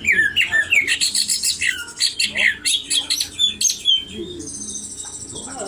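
Common iora (cak ijo) singing: a fast run of loud chirps and short falling whistled notes. About four seconds in, the song gives way to a steady, quieter, very high buzzing trill.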